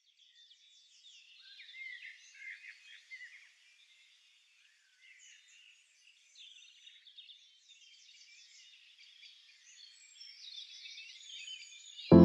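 Birds singing and chirping faintly, several short calls and trills overlapping. Right at the end a loud music track cuts in abruptly.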